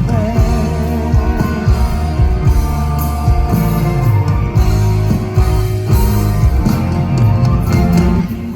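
Live amplified band music with guitar and a heavy, rock-like beat, recorded from among the audience; it drops in level right at the end.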